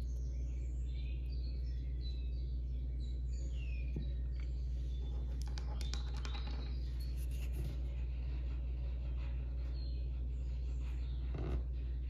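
Birds chirping in the background over a steady low hum, the chirps mostly in the first few seconds, with a cluster of light clicks around the middle and another just before the end.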